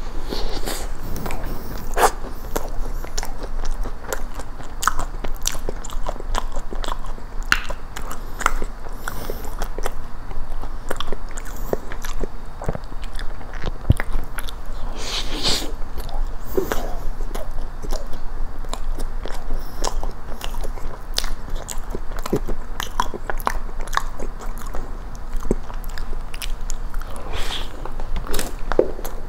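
Close-miked biting and chewing of a blueberry cookie cheesecake, a cookie-crust cup with cream cheese filling, with many irregular wet mouth clicks throughout.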